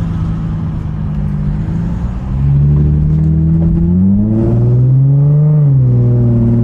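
Nissan 350Z's 3.5-litre V6 running at a steady cruise, then accelerating about two seconds in. Its note climbs, drops as the automatic transmission upshifts about four seconds in, climbs again, and levels off near the end.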